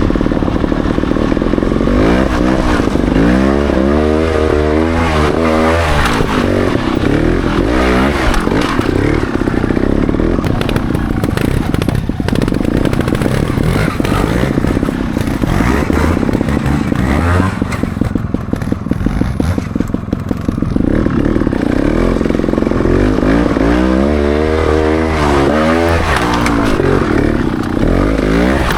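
Trials motorcycle engine being ridden over rough ground, revving up and down in repeated blips of the throttle, with clattering from the bike. The rise and fall in pitch is heaviest a few seconds in and again near the end.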